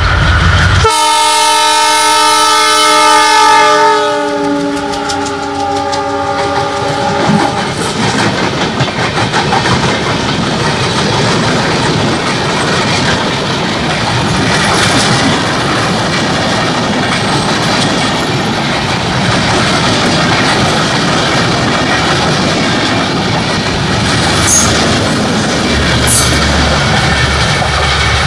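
ALCO WDM-3A diesel-electric locomotive sounds its multi-tone air horn about a second in, a long blast of several seconds that falls in pitch as the locomotive passes. The LHB passenger coaches then roll by with a steady clatter of wheels over rail joints, with a few sharp clicks near the end.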